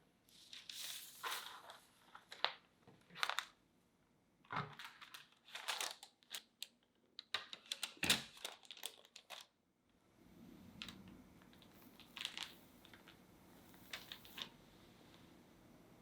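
Crinkling and rustling in short, irregular bursts, sparser over the last few seconds.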